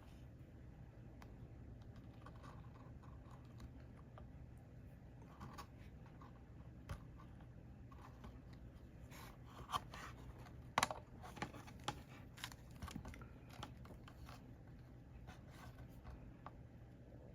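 Faint scattered clicks, taps and scraping of small hand tools working on a circuit board during desoldering, busiest about ten to thirteen seconds in, over a low steady hum.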